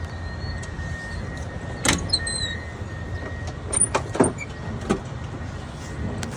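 Heavy vehicle engine idling with a steady low rumble, with several sharp clunks and clicks about two, four and five seconds in.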